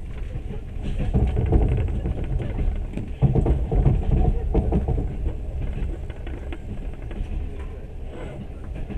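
Low, steady rumble of a passenger train running, heard from inside the carriage, with people talking in the background, loudest between about one and five seconds in.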